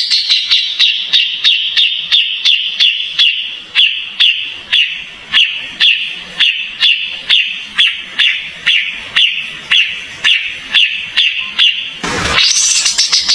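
Kapas tembak songbird calling in a fast, even series of short, sharp notes, each sliding slightly down in pitch, about three a second. The series breaks near the end and starts again with a brief rising sweep.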